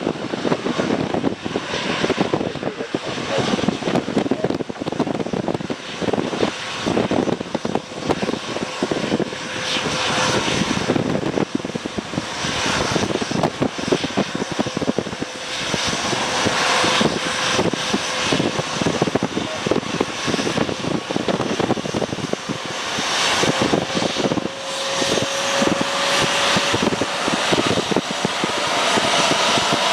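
Gusty wind buffeting the microphone over the steady sound of an aircraft's engines. A faint engine tone rises slightly in pitch in the second half as the sound builds.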